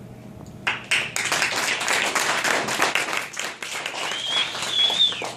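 A roomful of children clapping, starting suddenly just under a second in and fading out near the end. A high-pitched held tone sounds over the clapping shortly before it stops.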